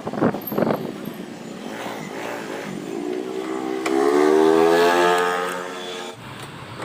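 Motorcycle engine revving up, its pitch rising and growing louder, then stopping abruptly about six seconds in; street traffic noise underneath.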